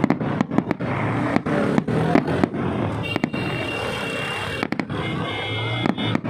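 Fireworks going off: a rapid, irregular string of sharp bangs and pops over a dense background din, with a thin high tone appearing about three seconds in.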